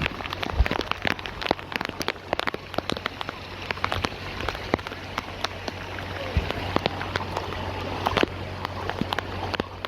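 Rain falling, with many separate drops striking a nearby surface as irregular sharp clicks, over a steady low hum.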